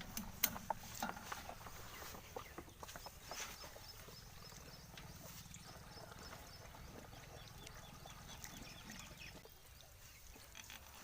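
Faint steady chugging of an 8 hp diesel water-pump engine, with a few sharp clicks about a second in.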